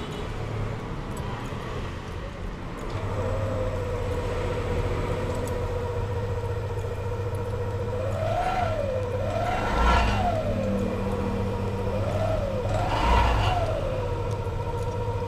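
An engine running steadily, revved briefly twice, each time with a small blip followed by a bigger one.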